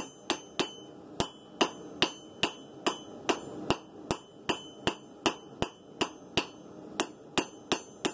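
Hand hammer striking hot steel on an anvil in steady forging blows, about two and a half a second, each with a short metallic ring. The smith is drawing out the bevels and tip of a san mai steel blade.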